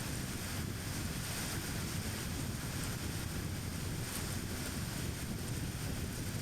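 A car driving: steady road noise, a low rumble from the tyres and running gear with a fainter hiss over it, unchanging throughout.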